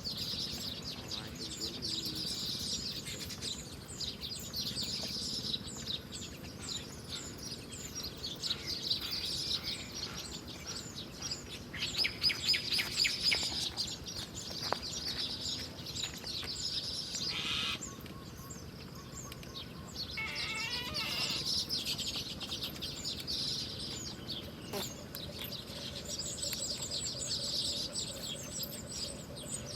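Small birds chirping and twittering, rapid high-pitched chirps that go on without a break, with a louder flurry of chirps about halfway through.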